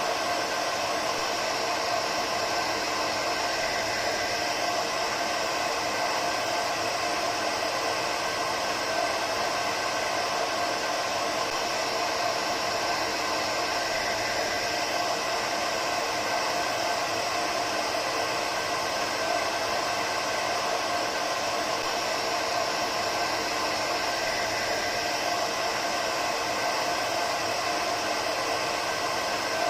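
Hair dryer running steadily: an even hiss of rushing air with a faint motor hum under it, no change in speed or pitch.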